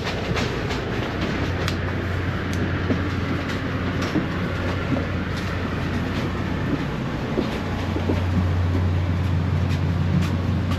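Passenger train running on the rails, heard from inside a car: a steady low hum and rumble with scattered light clicks from the wheels. The hum grows louder about eight seconds in.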